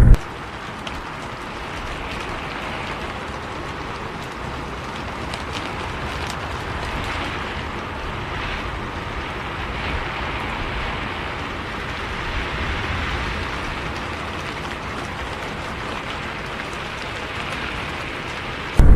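Steady rain falling, an even hiss with gentle swells every few seconds and no engine rumble beneath it; it starts and stops abruptly.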